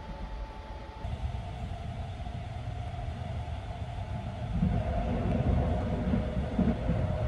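Running noise of the Sunrise Express's 285-series sleeper car, heard from inside a compartment: a steady low rumble from the moving train that grows louder about four and a half seconds in.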